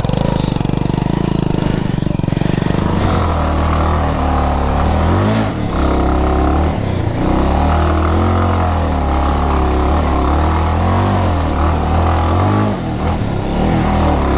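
Bajaj Avenger motorcycle engine working hard off-road, its revs rising and falling again and again as the throttle is worked over rough ground.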